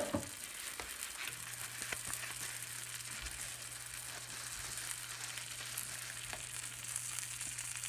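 Grilled Reuben sandwiches frying in a nonstick pan: a steady, soft sizzle with faint crackles as the bread browns. A low steady hum comes in about a second in.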